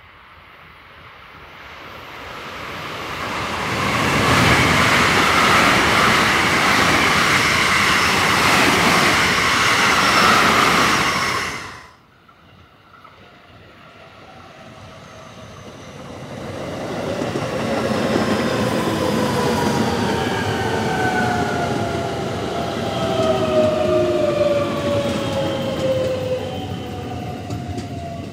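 An electric train runs through at speed with a loud rushing rumble that cuts off abruptly about twelve seconds in. Then a second electric train approaches, its motor whine gradually falling in pitch as it slows.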